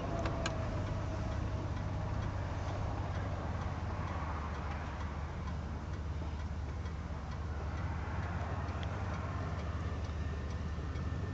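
1973 Pontiac Catalina's V8 idling steadily, with a faint regular ticking over its low, even hum.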